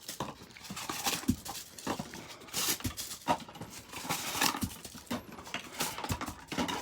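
Plastic blind-bag packaging being handled and torn open: irregular crinkling and crackling with small knocks.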